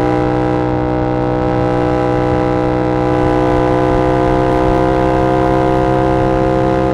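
2022 Yamaha R7's 689 cc parallel-twin engine running through an SC-Project CR-T exhaust, held at a steady cruising speed with its pitch creeping slightly upward.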